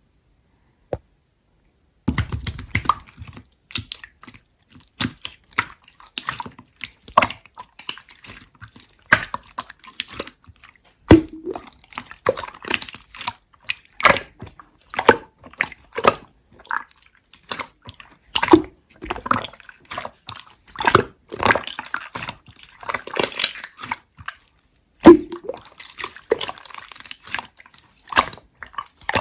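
Slime being pressed and squeezed by hand: an irregular run of sticky clicks and small pops, starting about two seconds in.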